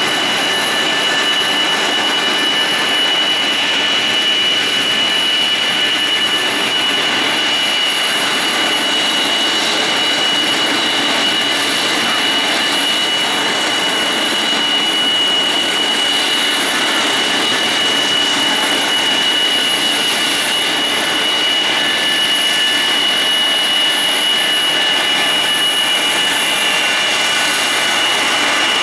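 Kawasaki C-1 transport's two Pratt & Whitney JT8D turbofan engines running steadily, a loud even rush with a constant high-pitched whine over it.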